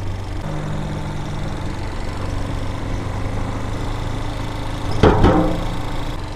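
Vitacci Raven 250 dirt bike's air-cooled 250cc engine running steadily at low speed, with a brief louder burst about five seconds in.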